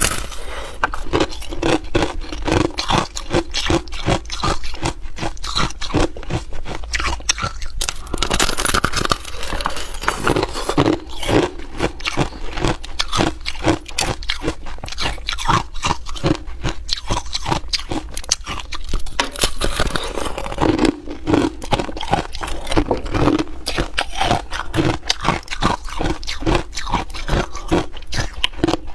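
Ice being chewed close to the microphone: hard ice crunching and cracking between the teeth in quick, irregular bites.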